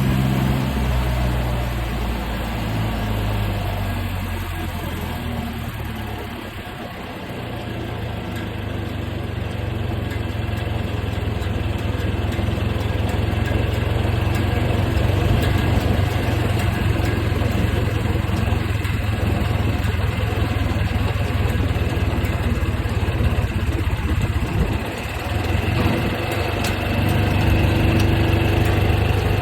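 1969 John Deere 2520 tractor's four-cylinder gasoline engine running. It drops in speed and loudness about six seconds in, then picks back up and runs steadily, with a brief dip near the end.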